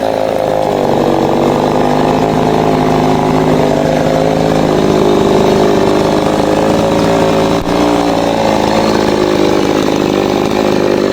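Chainsaw running at high revs while cutting timber, its engine note wavering up and down as the chain loads in the wood. There is one short dip in loudness about two-thirds of the way through.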